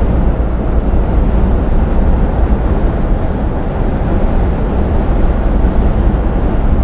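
Steady drone of a lorry cruising on a motorway, heard inside the cab: engine and tyre-on-road noise, loud and even, mostly deep and rumbling.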